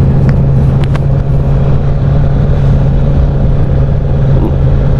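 Honda CBR1000RR inline-four engine running steadily at a constant cruise while the bike is ridden, with a rush of wind and road noise over it.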